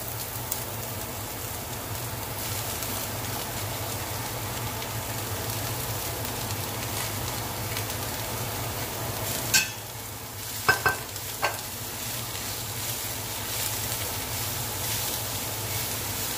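Shredded cabbage and sweet peppers frying in hot olive oil and butter in a stainless steel pan: a steady sizzle. A few sharp knocks come about ten seconds in.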